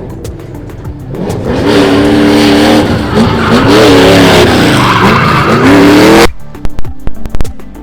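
Drift car engine revving up and down under hard throttle while the tyres skid. About six seconds in the engine sound cuts off abruptly, leaving a string of sharp cracks.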